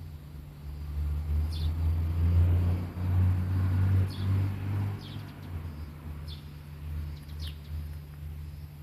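Small birds giving short high chirps every second or so over a steady low rumble. A swell of rushing noise rises and fades in the middle.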